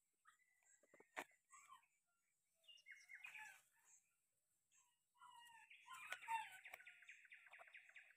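Faint birdsong: scattered chirps, then a fast, evenly repeated trilling call from about five seconds in. A single sharp click comes about a second in.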